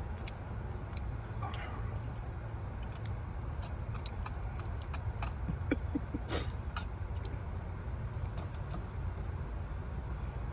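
Eating sounds: chewing and small clicks and taps of utensils, most frequent in the middle, over a steady low rumble.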